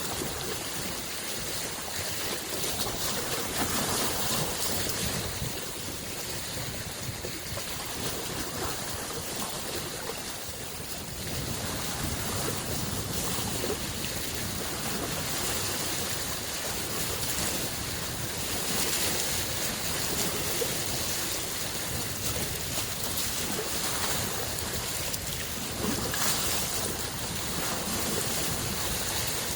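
Small freshwater lake waves washing in: a steady rush of water that swells every several seconds.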